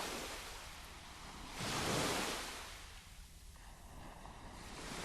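Surf washing in, a rushing noise that swells in slow surges, loudest about two seconds in and building again near the end.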